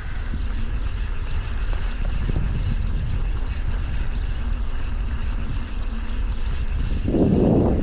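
Wind buffeting the microphone in a steady low rumble, with a louder gust near the end.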